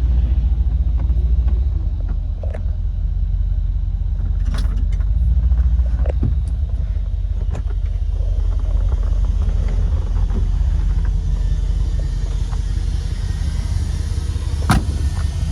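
Low, steady rumble of a 1955 Ford F100's 5.0-litre V8 and exhaust, with a few sharp clicks or knocks, the loudest near the end.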